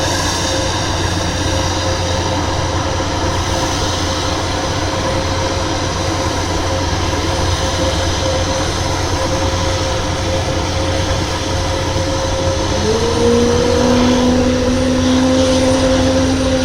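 Airbus A400M turboprop transport running on the ground: a steady whine over a loud, even rumble, with a second tone rising and then holding about thirteen seconds in.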